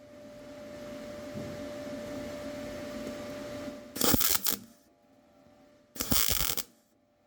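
Two short bursts of MIG welding, each about half a second long and about two seconds apart, over a steady background hum.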